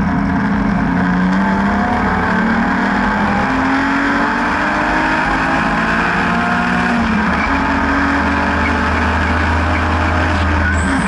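BMW N52B30 3.0-litre naturally aspirated straight-six in an E36 track car, pulling hard under load, its pitch climbing and falling as the revs rise and drop through the corners and gear changes.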